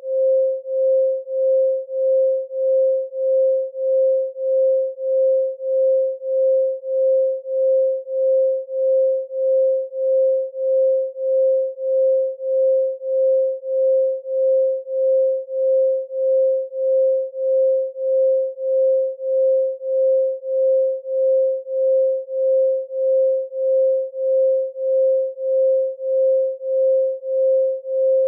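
A pure 528 Hz sine tone held at one pitch, swelling and fading evenly about one and a half times a second.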